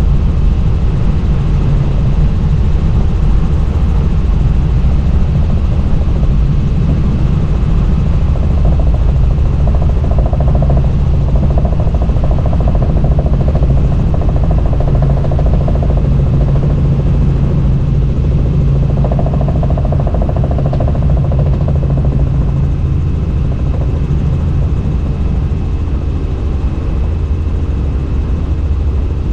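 Helicopter in flight, heard from on board: a loud, steady low drone of rotor and engine, with a low hum that swells through the middle.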